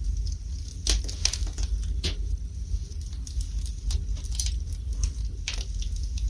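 Wood fire burning in a fireplace: irregular crackles and sharp pops over a steady low rumble. The loudest pops come about one and two seconds in and again later.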